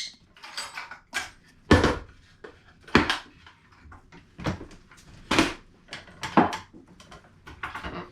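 A string of about ten irregular knocks and clatters, some with a short metallic ring, as objects are handled and set down.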